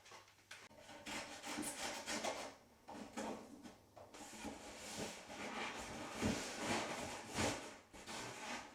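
Irregular rubbing and scraping with scattered light knocks, the sound of objects being handled, with two sharper knocks about six and seven seconds in.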